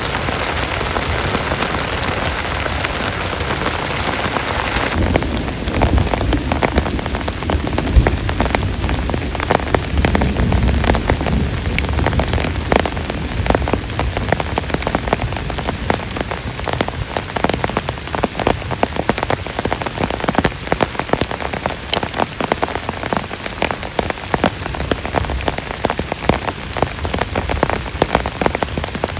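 Heavy rain falling. For the first few seconds it is a steady, even hiss; from about five seconds in, many separate drops can be heard striking a surface close by.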